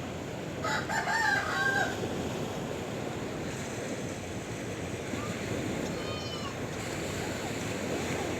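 A rooster crows once, for just over a second, over the steady wash of sea waves. A few faint chirps follow later.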